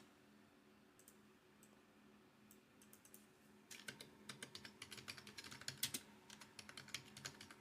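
Typing on a computer keyboard: a few scattered key clicks, then about four seconds in a quick, steady run of keystrokes, over a faint low hum.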